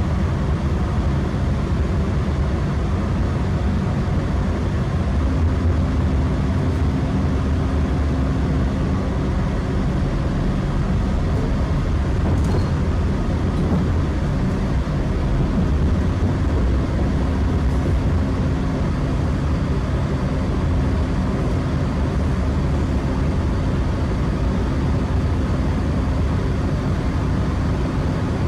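Networker Turbo diesel multiple unit running along the line, heard from inside the coach: a steady rumble of engine and wheels with a constant low hum, unchanging throughout.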